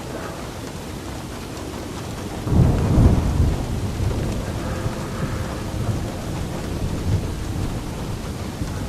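Steady rain with a roll of thunder. The thunder starts suddenly about two and a half seconds in, is loudest about a second later, then rumbles on more quietly for several seconds over the rain.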